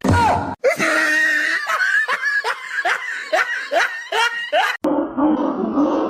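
A person laughing hard in quick repeated bursts, each falling in pitch. A sudden cut near the end brings in a different, duller-sounding voice.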